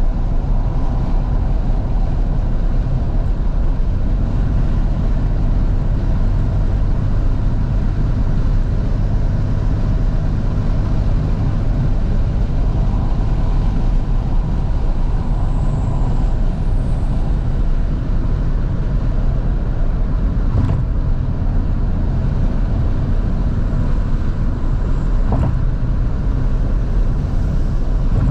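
A 2012 Fiat 500S driving along, heard from inside the car with the windows wide open: steady engine, tyre and wind noise. Two short sharp knocks come in the second half.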